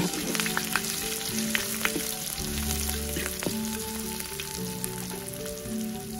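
Sliced shallots, garlic and chili sizzling in hot oil in a wok, with a metal spatula clicking and scraping against the pan now and then as it stirs. Soft background music plays underneath.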